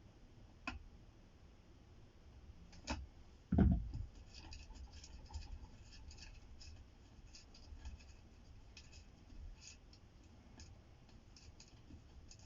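Small clicks, light scrapes and taps of hands and tools working on a studio monitor's amplifier during disassembly, with one heavier knock about three and a half seconds in.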